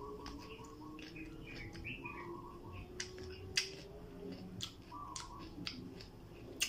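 Chewing a mouthful of raw cucumber with shrimp paste: a few scattered crisp crunching clicks over a quiet room, with faint bird chirps in the background.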